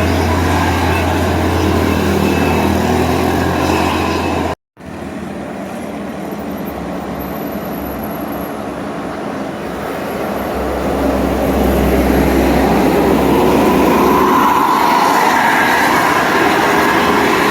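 Heavy road vehicles running past, with a steady low engine hum. The sound cuts out abruptly about four and a half seconds in, comes back quieter, then swells from about ten seconds in as another large vehicle draws near and goes by.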